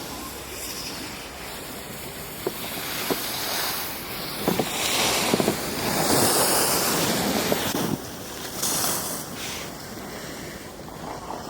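Edges sliding and scraping over packed snow during a run down a ski slope, with wind rushing on the microphone. The rush swells to its loudest from about three to eight seconds in, with a few short clicks and scrapes along the way.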